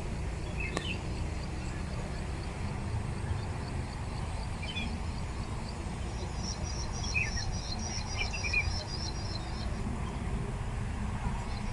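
Small birds giving a few short, high chirps over a steady low background rumble. A high, evenly pulsing trill joins from about the middle and stops near the end.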